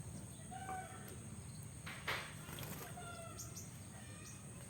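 Birds calling in short, repeated notes over a steady high insect-like drone, with a brief rustling burst about two seconds in from the bathing oriental magpie-robin.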